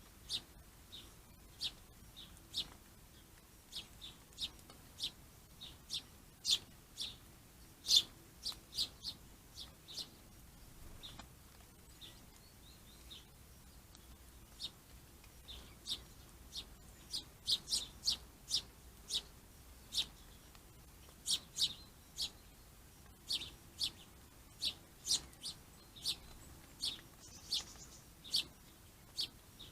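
Small birds chirping: short, high calls repeated irregularly, sometimes in quick runs, with a lull partway through.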